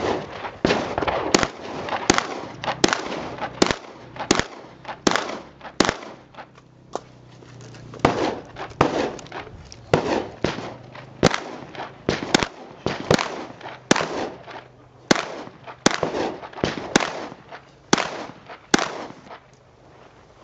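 Shotgun fired again and again in a fast, irregular string of shots during a practical shooting stage, about one or two shots a second, with a pause of a couple of seconds about six seconds in.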